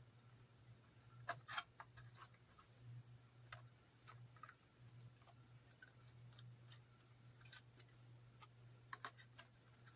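Faint, irregular clicks and taps of small plastic model parts being handled and fitted by hand, over a low steady hum.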